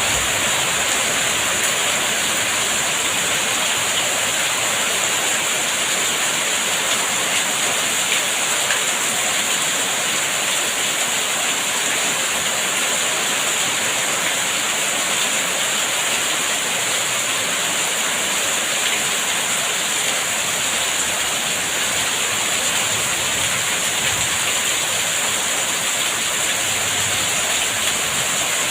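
Steady rain, a dense even hiss of falling rain with no thunder or distinct drops standing out.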